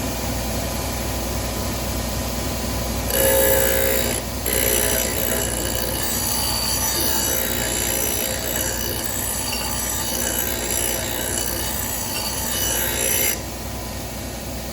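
Lawnmower blade being sharpened: continuous metal-on-metal grinding with a high ringing edge starts about three seconds in, breaks off briefly, and stops near the end, over a steady motor hum.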